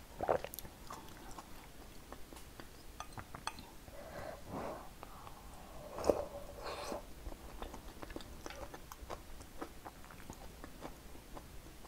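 Close-miked eating sounds of perilla seed sujebi, soft hand-torn dough in a perilla soup, being chewed. Small clicks run throughout, with a few louder mouthfuls about half a second in, around four and a half seconds, and around six to seven seconds.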